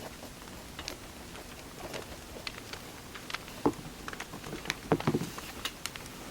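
Wood fire crackling, with irregular sharp snaps and pops over a soft hiss and a few louder cracks about three and a half and five seconds in.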